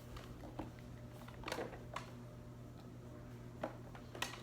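Scattered light clicks and taps of small plastic kit pieces (bottles, caps, mixing cup) being handled, over a low steady hum.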